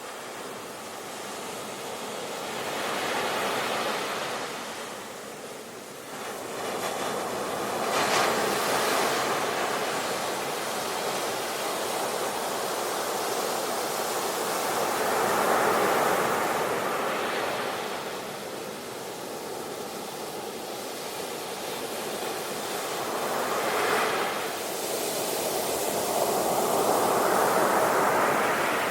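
Ocean waves breaking and washing ashore, the surf swelling and falling in slow surges every several seconds.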